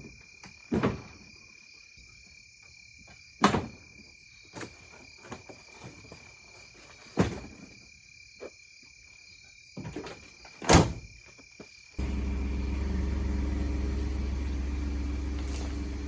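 A few sharp knocks and clatters over a steady high cricket trill. About twelve seconds in, a steady low engine drone cuts in abruptly.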